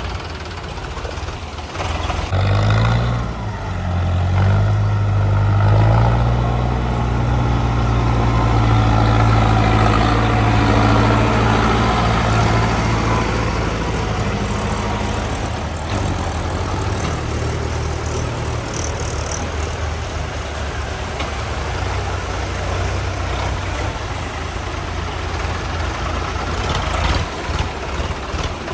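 Tractor diesel engine revving up about two seconds in and running hard for around ten seconds, then easing back to a steadier, lower running.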